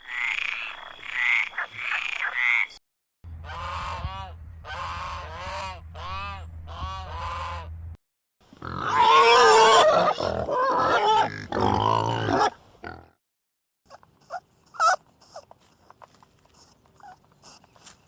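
Calls from several different animals in turn. First a few short repeated calls, then five evenly spaced calls over a low hum, then a loud burst of overlapping calls about nine seconds in, and finally faint scattered clicks.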